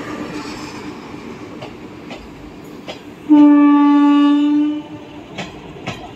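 Passenger coaches rolling past, their wheels clicking over rail joints, and about three seconds in a single loud train horn blast lasting about a second and a half.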